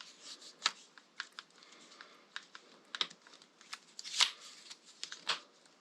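Irregular light clicks and taps of hand tools being handled on a workbench, a few sharper knocks among them.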